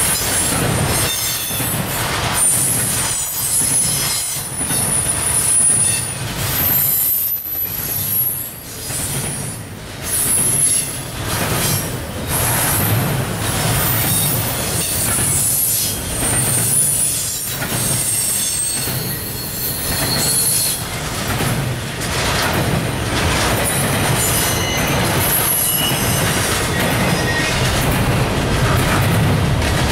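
Intermodal freight train's double-stack well cars and trailer flatcars rolling past close by: a steady rumble with repeated clacks of wheels over rail joints, and on and off a thin, high-pitched squeal from the wheels.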